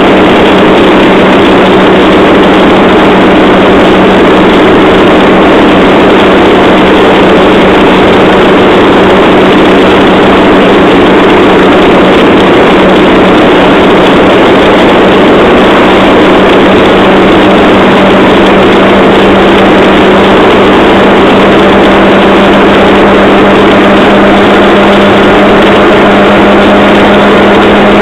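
Engine of a handmade rail trolley running steadily. It keeps one even, unchanging pitch under a constant loud drone.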